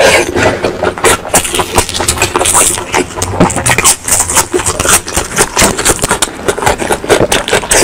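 Close-miked mukbang eating sounds: chewing and mouth sounds with a rapid run of wet clicks and smacks as food is bitten and chewed.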